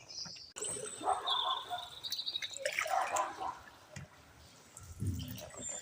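Water dripping and splashing as canoe paddles dip into the canal, inside a canal tunnel.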